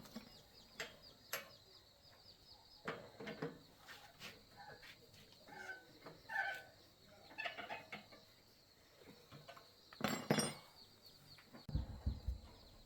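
Scattered short animal calls mixed with sharp clicks and knocks, a cluster of louder knocks about ten seconds in, over a faint steady high tone.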